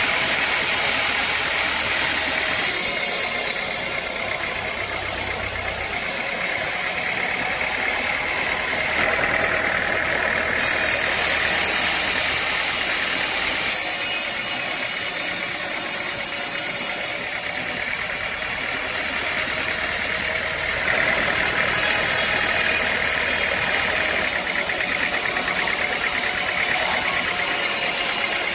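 Sawmill machinery running with a steady engine sound that changes in character abruptly every few seconds.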